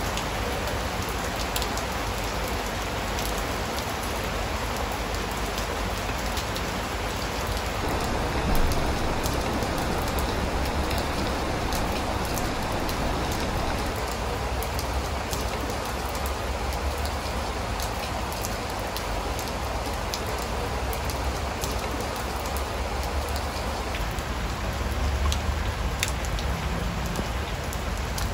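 Steady rain falling on a wooden plank deck and potted plants, with scattered single drops ticking close by and one brief louder moment about eight seconds in.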